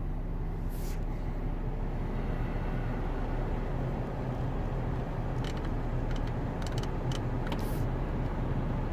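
Jaguar F-Pace engine running steadily, heard from inside the cabin as a low hum, with a few light clicks about a second in and several more in the second half.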